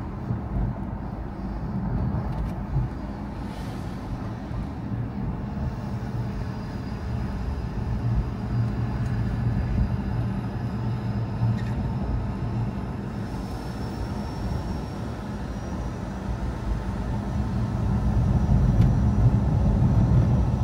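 Car being driven, a steady low rumble of engine and road noise that swells a little near the end, with a faint high whine in the middle.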